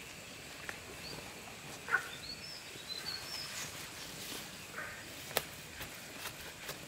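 Small birds chirping with short, high notes over a faint steady outdoor hum. A few sharp clicks or taps are mixed in, two of them louder than the rest.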